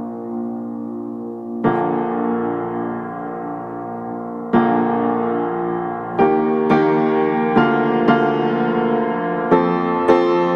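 Background piano music: slow sustained chords, with new chords struck about one and a half and four and a half seconds in, then notes picking up to roughly two a second in the second half.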